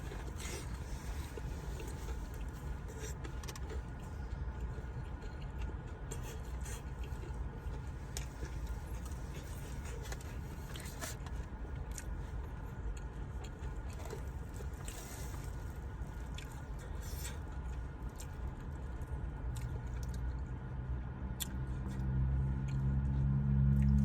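Someone eating a chicken slider: scattered soft clicks and rustles of chewing and handling the sandwich over a steady low hum. A louder low pitched hum builds near the end.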